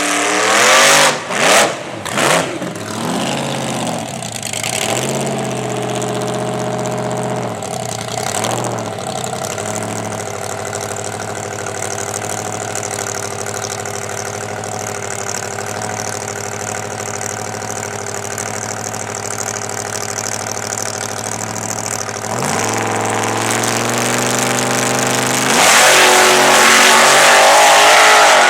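Supercharged 355 cubic-inch small-block Chevy V8 in a drag truck. A few sharp throttle blips at the start, then the engine runs steadily for a long stretch with occasional revs. It rises again near the end and goes to loud, hard throttle for the last few seconds.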